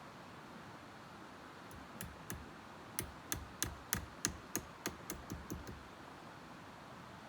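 A run of about a dozen sharp knocks, roughly three a second, coming quicker and fainter near the end.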